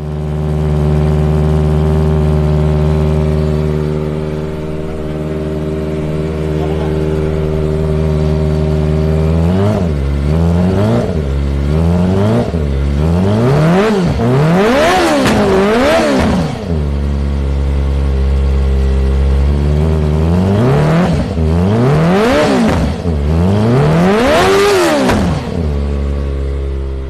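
Kawasaki Ninja ZX-25R's 250 cc inline-four engine idling steadily, then revved in a quick series of throttle blips that climb higher and fall back each time. It settles back to idle, is blipped through a second series, and returns to idle near the end.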